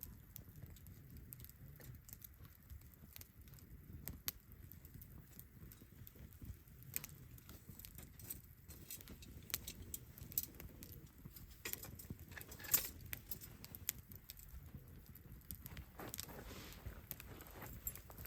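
Wood campfire crackling: irregular sharp pops and snaps, thicker and louder in the second half, over a steady low rumble.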